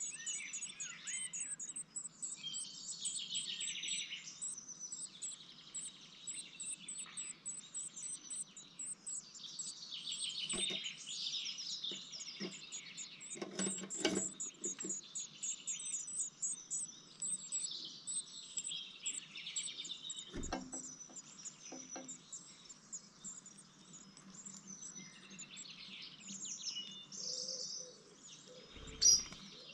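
Birds chirping at a blue tit nestbox: a fast, very high chirping runs throughout under louder bursts of calls. A few short knocks come through, and a sharp thump near the end is the loudest sound.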